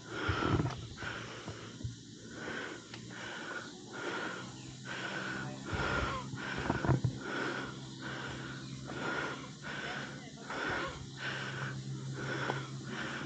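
A person breathing hard in quick, even breaths.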